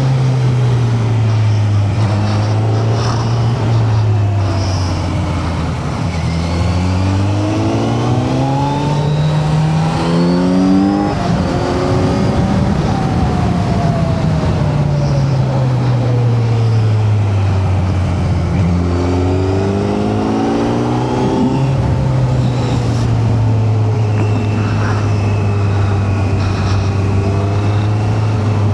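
Kawasaki Z900's inline-four engine under way, with wind rush on the helmet camera. The engine note falls, climbs as the bike accelerates about a quarter of the way in, eases off, climbs again past the middle, then holds steady.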